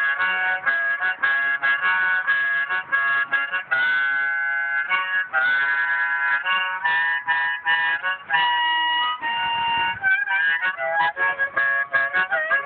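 Harmonica played solo in a quick run of short chords and notes, with one longer held chord about eight seconds in.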